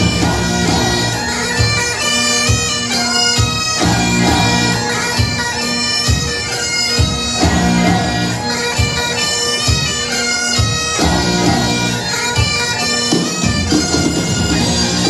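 Background music: a bagpipe tune playing over steady held drone notes, with a drum beat underneath.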